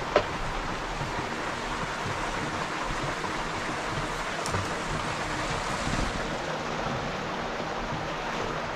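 Steady rain falling, an even hiss throughout, with one sharp click just after the start.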